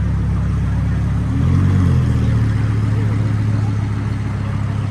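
A car engine running steadily, its pitch shifting and its level rising slightly about a second and a half in, then holding steady again.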